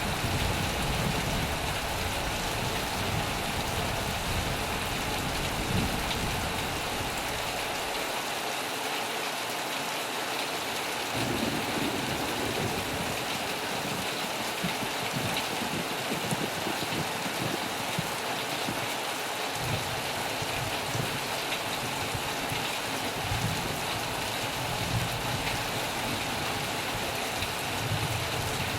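Steady heavy rain drumming on a metal roof, with a low rumble underneath that fades out for about ten seconds in the middle and then returns.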